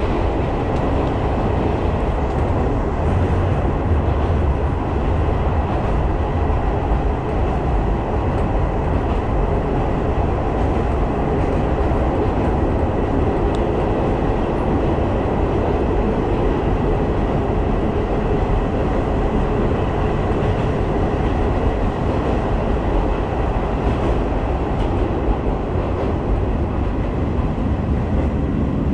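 Izuhakone Railway Daiyuzan Line electric train running at modest speed, heard from inside the front car: a steady, even rumble of the running train on the rails.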